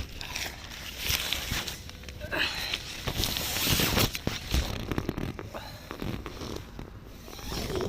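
Tent door zipper being drawn open in several rasping pulls, with nylon tent fabric rustling.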